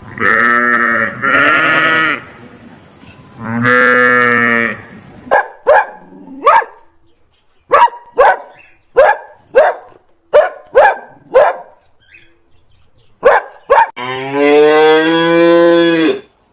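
Farm animals calling: three drawn-out bleat-like calls, then a run of short cries that each drop in pitch, and a cow's long moo near the end.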